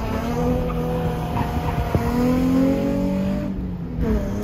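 Nissan 350Z's 3.5-litre V6 engine pulling hard under acceleration, heard from inside the cabin, its note climbing slowly. There is a sharp click about two seconds in, and a brief dip near the end before the engine note picks up again.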